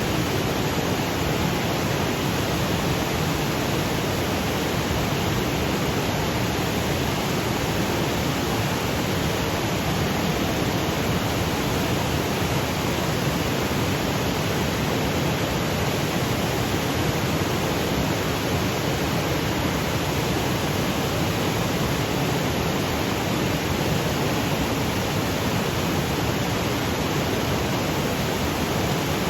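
Waterfall cascading over granite boulders: a steady, even rush of water with no change in level.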